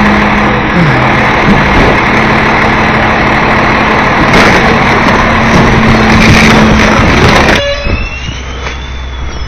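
Rear-loader garbage truck's compactor cycling: the engine and hydraulics run loud with a steady low hum, then drop off abruptly about a second and a half before the end. What remains is quieter running, with a few thin squeals.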